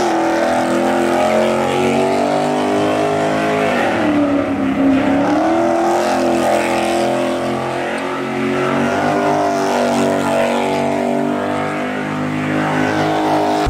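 A car engine running and revving, its pitch dipping and rising slowly several times.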